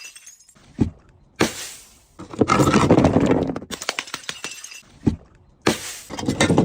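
Brittle objects, glass among them, being crushed and breaking, twice over: each time a short knock, a sharp crack, then about a second and a half of dense crunching and shattering.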